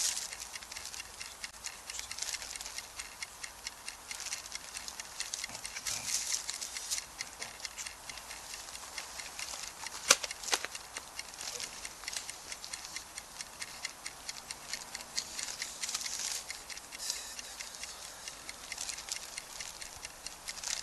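Wood campfire crackling: a steady run of small irregular snaps, with one sharper pop about ten seconds in.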